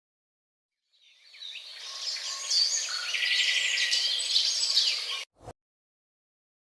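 Several birds chirping and trilling over a light background hiss, fading in after about a second and cutting off abruptly after about four seconds, followed by a brief click.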